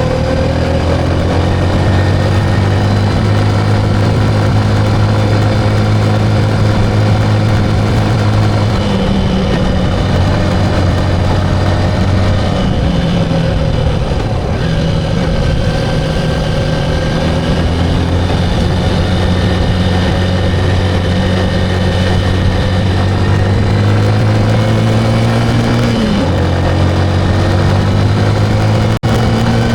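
Motorcycle engine running under way, its pitch stepping down and climbing back several times as the speed or gear changes. The sound drops out for an instant near the end.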